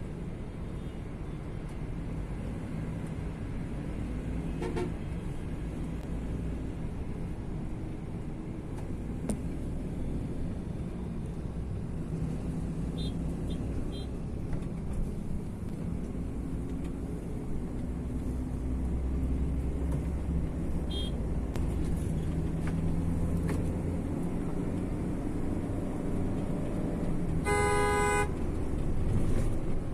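Road vehicle running with a steady low rumble of engine and road noise. Near the end a vehicle horn sounds once for about a second.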